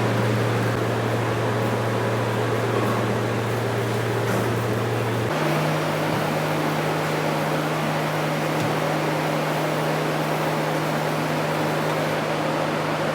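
Steady drone of running workshop machinery, a constant noisy whir over a low hum. About five seconds in, the sound changes abruptly and the hum steps up slightly in pitch.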